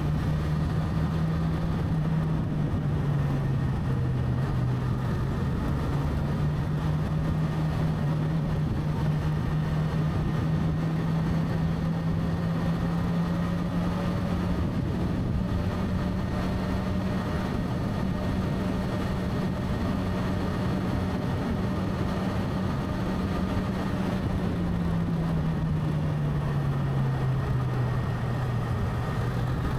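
Motorcycle engine running steadily while riding, over constant road and wind noise; its pitch climbs slowly and then drops about 25 seconds in as the revs come down.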